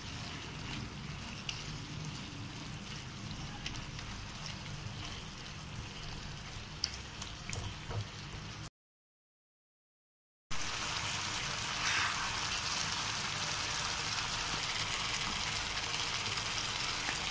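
Chicken pieces simmering and sizzling in oil and sauces in a frying pan: a steady bubbling hiss with scattered small pops. The sound cuts out completely for about two seconds near the middle, then comes back louder.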